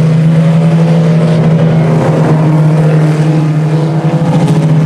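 IMCA Sport Compact four-cylinder race cars running laps on a dirt oval, a steady loud engine drone held at one pitch.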